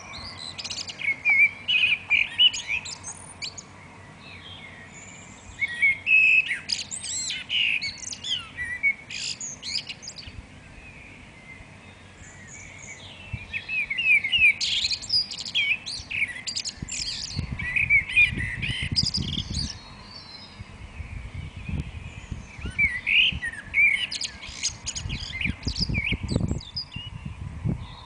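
Garden songbirds singing in the dawn chorus: bursts of high, quick warbling phrases every few seconds, with short pauses between. A low rumble comes in about two-thirds through and again near the end.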